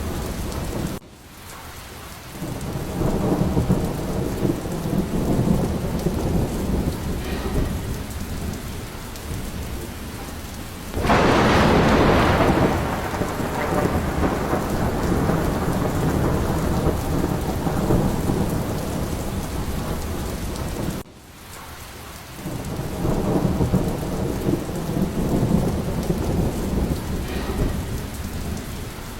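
Steady rain with rolling thunder. About eleven seconds in, a sudden loud thunderclap fades away over a few seconds. Twice the sound drops away abruptly and swells back.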